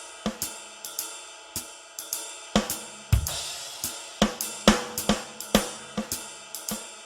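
Music: a drum kit playing alone, with cymbal and hi-hat strikes and snare and bass drum hits in a beat.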